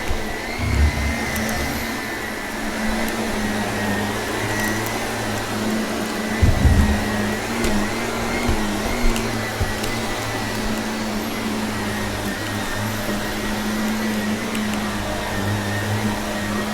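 Vacuum cleaner running steadily with a motor whine, picking up crunchy debris, with a couple of low bumps about a second in and again near the middle.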